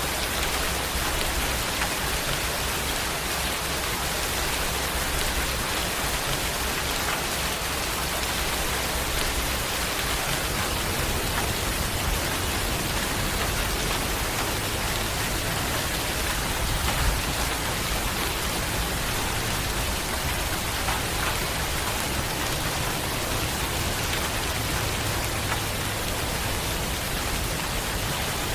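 Steady, heavy rain falling and pattering on surfaces, an even dense hiss without a break, with one slightly louder drop or tap about 17 seconds in.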